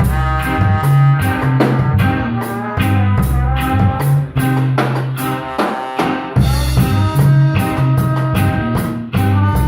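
Live instrumental rock band playing: guitar lines over bass and a drum kit keeping a steady beat, with no singing.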